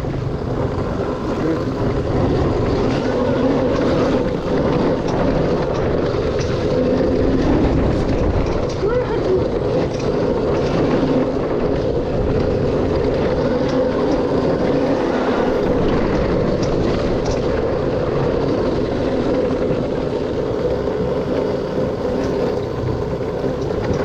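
Dirt bike engine running steadily while riding a trail, its pitch shifting a little with the throttle.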